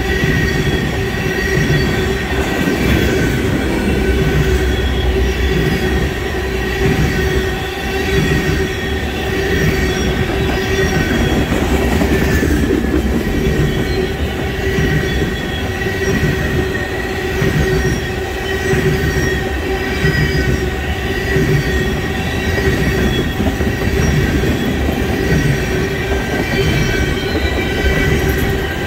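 Loaded tank cars of a freight oil train rolling past on steel wheels: a steady, loud rumble with a regular low beat as the wheel sets pass, and a continuous high whine from the wheels on the rails.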